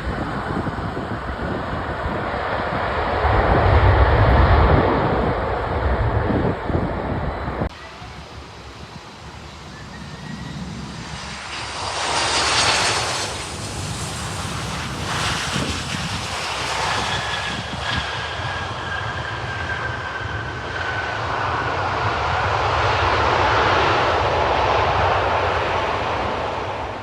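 Boeing 727-225F freighter's three JT8D jet engines running, with a heavy low rumble for the first several seconds. The sound cuts off abruptly and picks up quieter, then a thin whine slowly falls in pitch in the second half.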